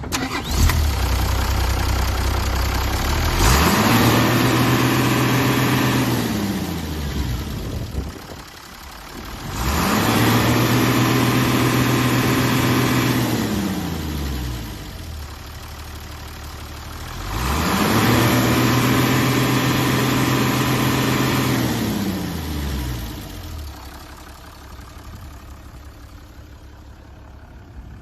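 Diesel engine of a 1995 Mitsubishi Fuso Fighter truck idling and being revved three times, each rev held for several seconds before falling back to idle.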